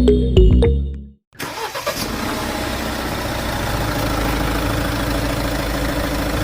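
Background music cuts off about a second in, then a motor starts and runs steadily with an even drone.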